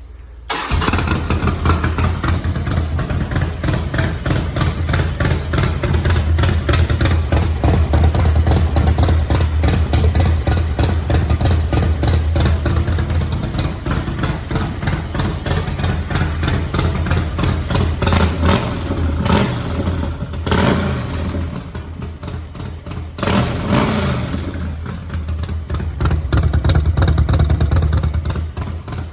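Harley-Davidson Softail V-twin engine running through an aftermarket BMF exhaust pipe: it starts up about half a second in, idles with a deep, uneven beat, and is blipped several times in the second half.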